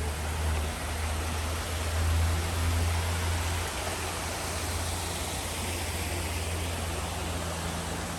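Steady rush of falling water from a waterfall, an even noise with a deep rumble underneath.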